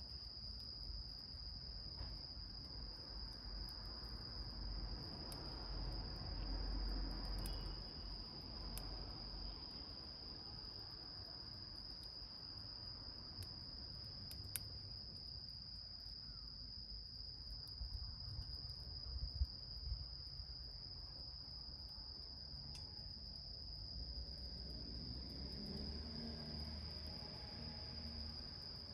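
An insect trilling without a break on one steady high pitch, over a low rumble, with a few sharp faint crackles from a small wood fire burning in a can.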